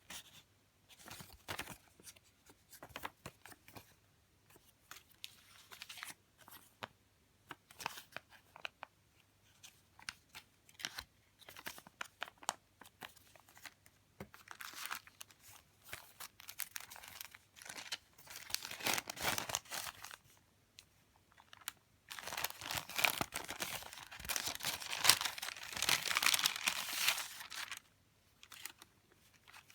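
Paper and plastic stationery being handled: scattered soft rustles and taps, then longer stretches of crinkling, the longest lasting several seconds near the end.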